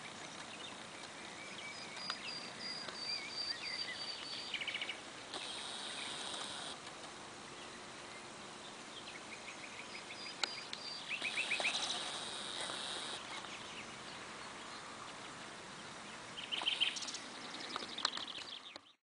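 Wild birds singing outdoors: repeated short chirps and trills from several birds over a steady background hiss, with the sound cutting off abruptly near the end.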